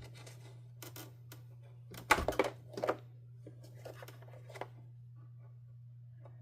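Parts of a canister vacuum being handled and set down on a workbench. Scattered clicks and knocks, with a loud cluster of clatters about two seconds in, over a steady low hum.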